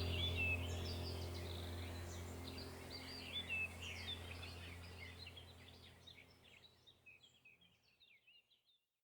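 Several songbirds chirping and singing in quick, high phrases over a low steady hum. Both fade out gradually to silence by about seven seconds in.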